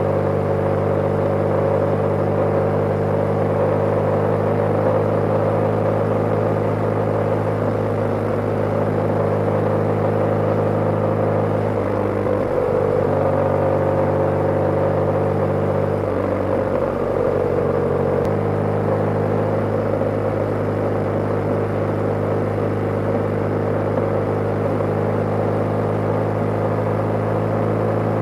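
BMW G/S motorcycle engine running steadily at cruising speed, heard from on the bike, with road and wind noise. The engine note breaks and shifts briefly about halfway through, then settles again.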